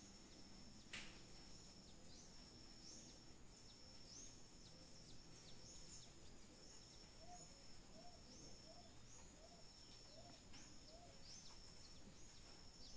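Near silence with faint bird calls: a high chirp repeated nearly twice a second, joined in the middle by a short run of lower calls. A faint tap about a second in.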